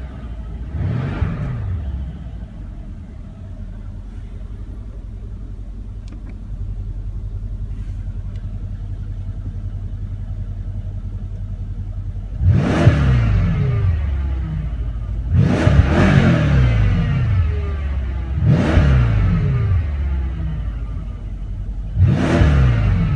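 2016 Mercedes-Benz S63 AMG's 5.5-litre bi-turbo V8 being revved while parked. There is a quick blip about a second in, then it idles steadily for about ten seconds, then four throttle blips about three seconds apart, each rising and falling in pitch.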